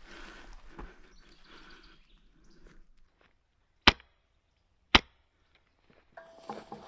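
Two sharp airsoft gun shots about a second apart, loud against near silence, after some faint rustling.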